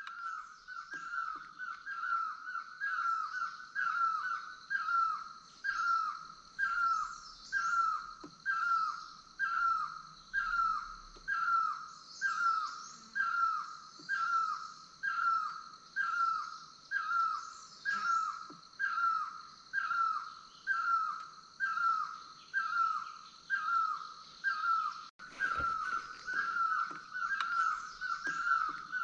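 A bird calling one short, falling note over and over at an even pace, about one and a half calls a second, over a steady high hiss.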